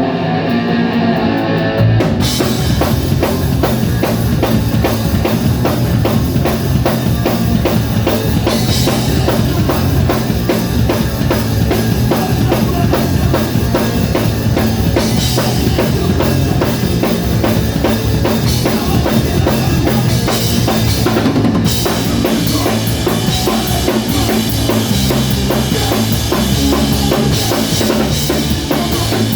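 Live band playing a song at full volume: guitar and bass open it, and the full drum kit, with kick, snare and cymbals, comes in about two seconds in and keeps a steady beat.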